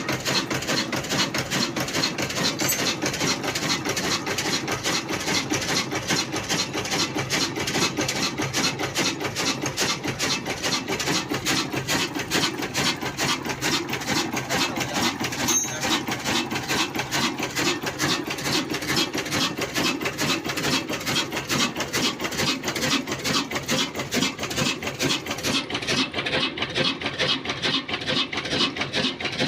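Old black single-cylinder diesel engine running steadily with a fast, even beat, driving a stone flour mill (aata chakki) whose grinding adds a rasping, rubbing noise.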